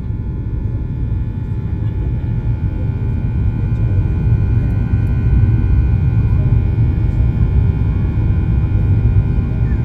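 Airliner cabin noise: a deep engine and airframe rumble with a steady high jet whine, growing gradually louder.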